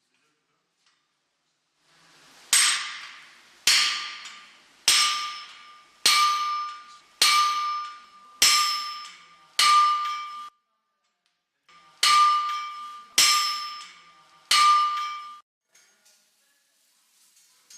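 Blacksmith's hammer striking iron on the anvil, ten ringing blows at a steady, unhurried pace: seven, a pause of about a second and a half, then three more. Each blow rings with a clear metallic tone that fades within a second.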